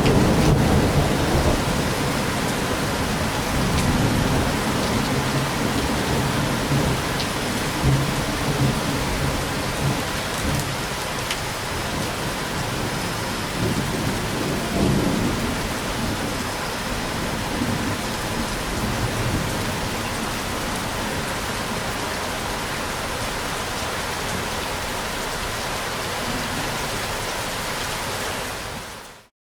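Steady rain with rolling thunder: a low rumble is loudest at the start and dies away, with fainter rumbles later on. Near the end the sound fades out briefly to silence.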